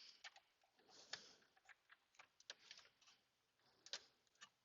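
Faint, irregular clicks and taps of hand tools and 7mm bolts being handled and threaded in by hand, with two slightly louder clicks about a second in and near the end.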